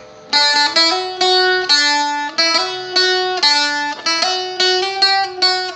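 Seagull Merlin (a four-string strumstick-style dulcimer) picked as a melody line: a run of single plucked notes, about three a second, playing the first part of a simple jig tune.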